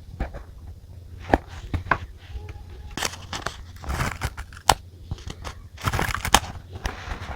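Paper and stationery being handled: short bursts of paper rustling and crinkling, mixed with sharp clicks and taps, busiest after about three seconds.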